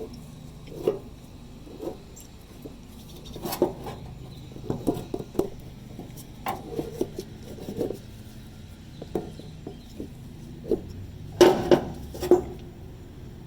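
Scattered metallic clinks and knocks of hand tools and parts being handled during a fuel pump job, with a louder cluster of clanks near the end.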